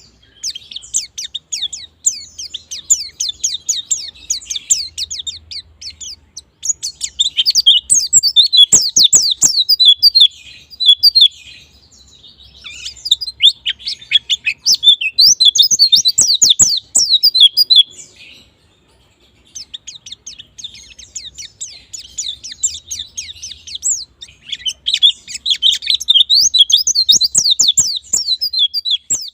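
A white-eye (pleci) singing a fast, chattering song of quick sweeping high notes, in several long bouts broken by short pauses. A few sharp clicks fall in the middle of the bouts.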